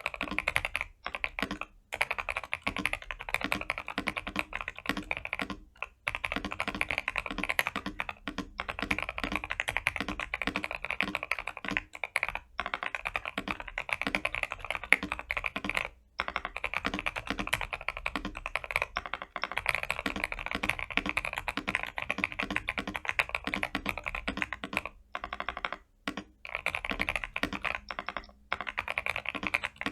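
Continuous fast typing on a mechanical keyboard with lubed Gazzew Boba U4T tactile switches, foam-dampened case and PBT keycaps: dense keystroke clacks with a few brief pauses.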